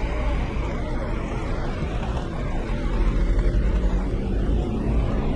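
Rain falling on a wet city street with traffic running, a steady hiss over a low rumble.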